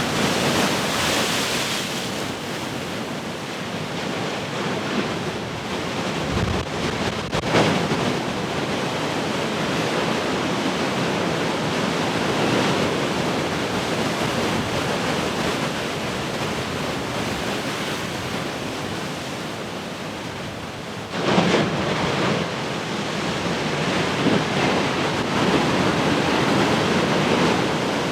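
Large ocean waves breaking and washing in as a continuous rush of surf that swells and ebbs. One wave crashes sharply about seven seconds in, and a heavier one breaks suddenly about 21 seconds in.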